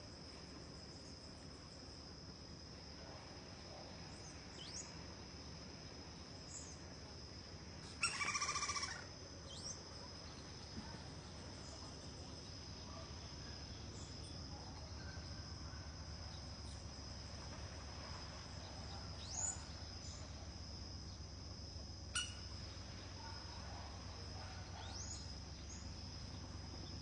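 A crimson-crested woodpecker gives one loud, harsh call about eight seconds in, over a steady high insect whine. Short rising bird chirps sound every few seconds.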